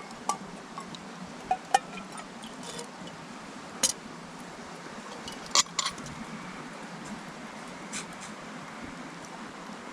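Open wood campfire crackling over a steady low hiss, with a handful of sharp, irregular pops.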